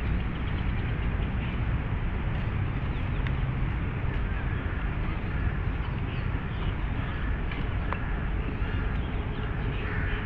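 Outdoor park ambience: a steady low rumble of distant city traffic, with a few faint bird chirps over it.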